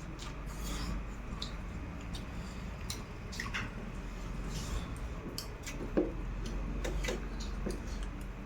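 Close-up eating sounds: chewing with irregular wet mouth clicks and squelches, and one sharper click about six seconds in.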